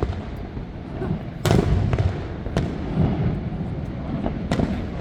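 Fireworks bursting: a loud bang about a second and a half in, then sharp cracks about a second later and again near the end, over a steady low rumble.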